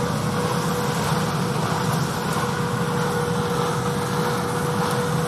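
Engine running steadily: a low, even hum with one constant thin whine above it.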